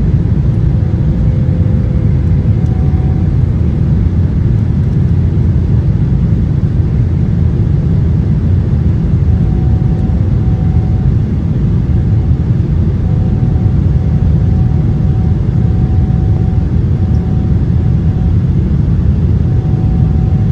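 Steady, loud low rumble of engine and airflow noise inside a Boeing 777-300 airliner cabin, with a faint humming tone that comes and goes.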